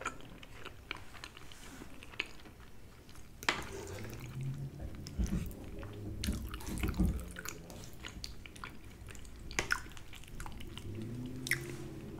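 Close-miked chewing and wet mouth sounds of a person eating soft food such as meatloaf and mashed potatoes, with scattered sharp clicks as a fork touches the plate and utensils.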